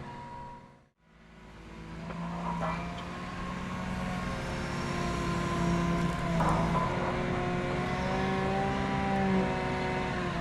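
After a brief fade nearly to silence about a second in, a heavy equipment engine fades in and runs steadily, its pitch drifting slightly.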